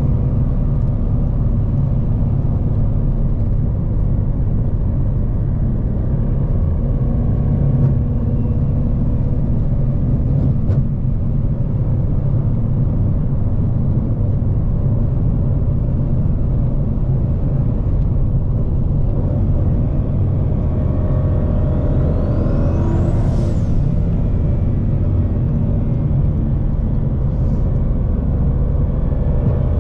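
Twin-turbo Ford Mustang V8 cruising, heard from inside the cabin: a steady low engine and road drone through its Corsa Sport exhaust. About two-thirds of the way through, a high whistle rises and falls once.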